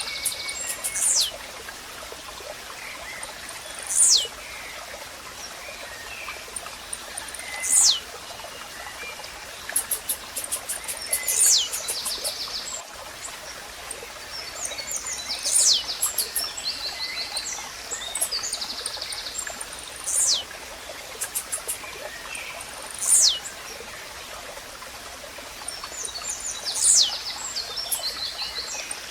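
Blue-black grassquit (tiziu) repeating its short, sharp song, a quick falling high note given eight times, every three to four seconds. Other small birds chirp between the songs over a steady hiss of running water.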